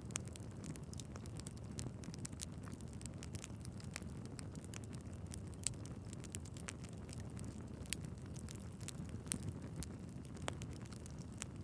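Wood fire burning in a fireplace: a steady low rush of flames with irregular crackles and pops from the logs, two sharper pops standing out in the middle.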